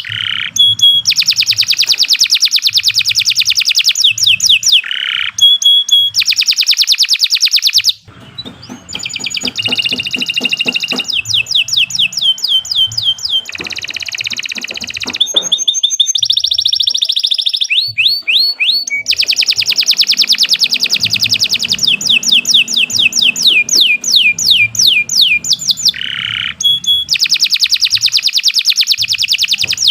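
Domestic canary singing a long, continuous song of fast trills and rapidly repeated high notes, in phrases several seconds long, with a brief drop in loudness about eight seconds in.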